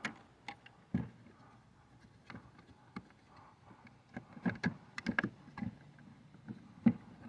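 Scattered clicks and light knocks of mounting hardware being handled as a light-fixture mounting piece is fitted, bunched into a quick run of taps past the middle with one sharper click near the end.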